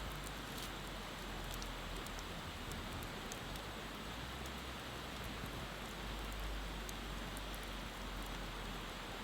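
Wood bonfire burning with scattered sharp crackles and pops over a steady rushing hiss.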